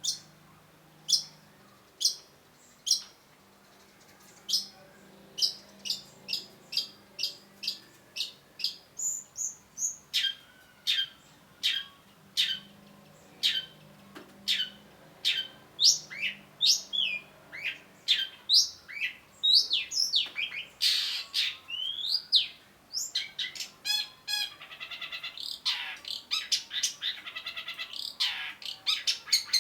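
Long-tailed shrike singing: a string of sharp, high chip notes, at first about one a second and then quickening, with a few sweeping whistled notes past the middle, and a fast rattling chatter near the end.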